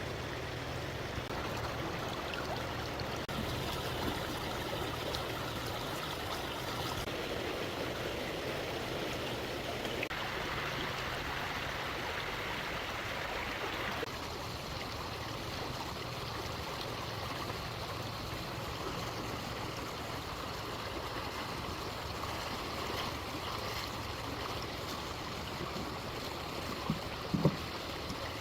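Stream water flowing steadily, its sound shifting abruptly several times, with a couple of short knocks near the end.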